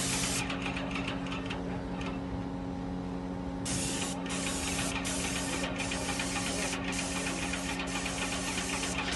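Yokiji YKJ720 airless paint sprayer at work: a steady hum from its electric piston pump under the high hiss of paint spraying from the gun's nozzle. The spray hiss stops for about three seconds near the start, then resumes with a few brief breaks as the trigger is released.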